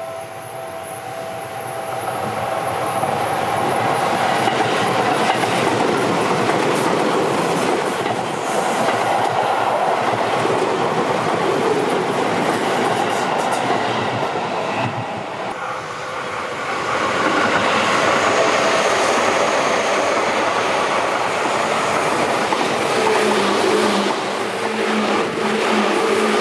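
Seibu Railway electric trains running past, wheels clattering on the rails. The noise builds about two seconds in, dips briefly around the middle and swells again. A steady low whine comes in near the end.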